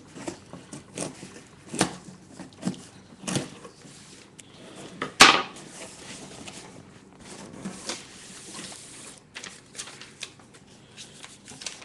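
A cardboard shipping package being cut open with a knife and handled: scattered knocks, scrapes and crinkling, with one loud sharp knock about five seconds in.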